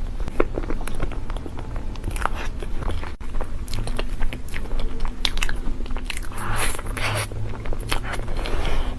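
Close-miked eating of crepe cake: biting and chewing with many small wet mouth clicks, over a steady low hum.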